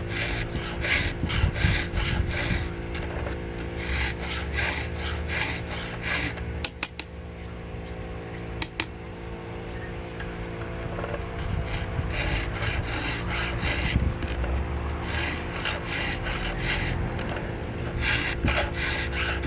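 Chainsaw file rasping across the cutter teeth of a 36-inch, 114-drive-link milling chain in quick repeated strokes. The strokes pause for a few seconds midway, with a couple of sharp clicks in the gap, then resume on the next teeth.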